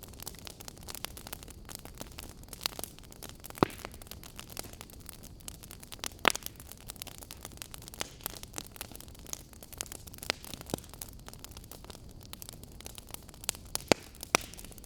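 Wood fire crackling in a fireplace: a steady soft hiss with many small irregular crackles and a few sharper pops, the loudest about six seconds in.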